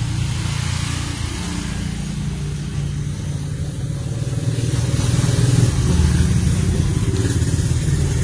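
A steady low rumble of a motor running, pulsing rapidly and swelling slightly a little past the middle.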